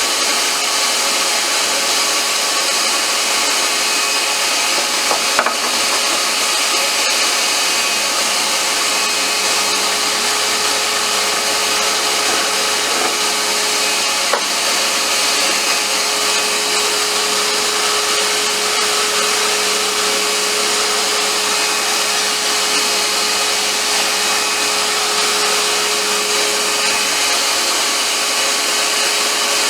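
Wood lathe running with a turning tool cutting a spinning wooden popper lure blank: a steady motor hum under a continuous scraping hiss of the cut.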